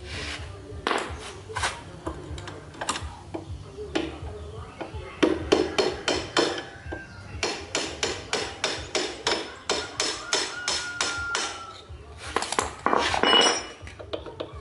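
Hammer blows on metal, a run of fast, even strikes about three a second through the middle, some leaving a brief metallic ring.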